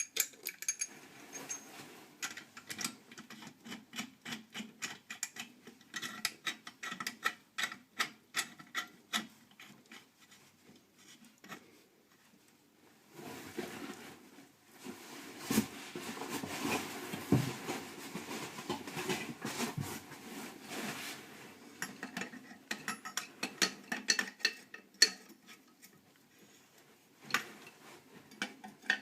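Hand work with scraping and rubbing strokes: a run of quick clicks and scrapes, a steadier stretch of rubbing about halfway through, then more scraping and tapping.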